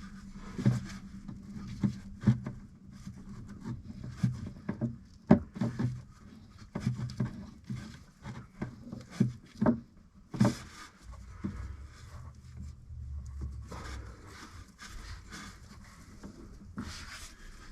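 Irregular light knocks and clicks of hands handling an A/C hose fitting, threaded on hand tight. A low rumble comes in for a few seconds past the middle.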